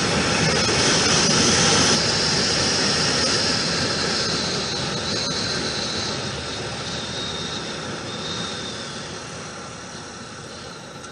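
Wind and road noise from a moving motorcycle, steady at first and then fading away gradually as the bike slows down.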